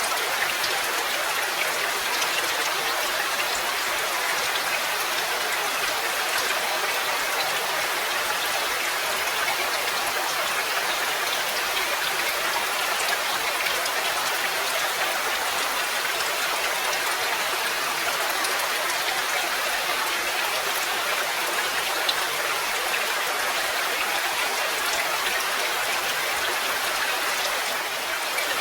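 Steady rain falling, a dense even hiss of many fine drops spattering on surfaces.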